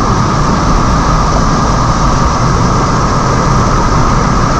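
Waterfall water rushing strongly, a loud steady noise of falling water.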